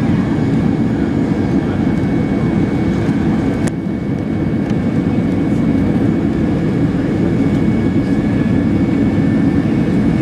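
Cabin noise inside an Airbus A320-212 airliner: the steady rumble of its engines and airflow with a thin, steady whine on top. There is a single sharp click about four seconds in.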